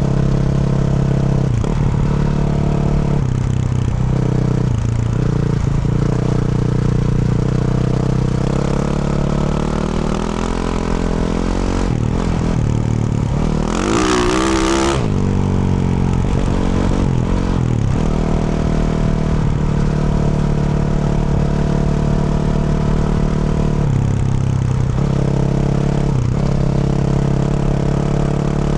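Yamaha YZ450F single-cylinder four-stroke dirt bike engine, through a Yoshimura RS-12 exhaust, running under way, its pitch dropping and rising again several times with throttle and gear changes. About halfway through there is a brief loud rush of noise over the engine.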